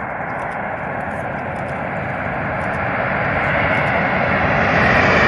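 Airliner on final approach for landing, its engine noise growing steadily louder as it comes toward and over the listener.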